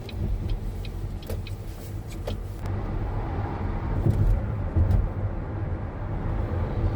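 Car driving: a steady low rumble of engine and road noise, with a few faint clicks in the first couple of seconds.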